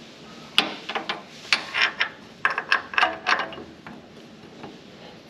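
Steel hand tools and hardware clinking and clanking: a run of irregular sharp metallic clicks, some ringing briefly, for about three seconds.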